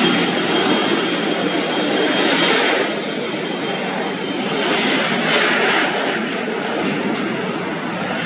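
Jet airliner passing close by at the airport, its engines a loud, steady roar, with a thin high whine in the first three seconds.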